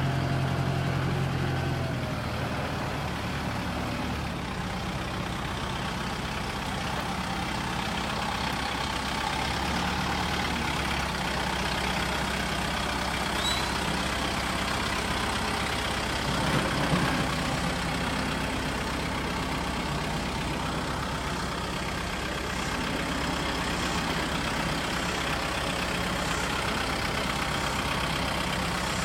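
Kubota M6060 tractor's four-cylinder diesel engine running steadily at a low speed, its note dropping about two seconds in.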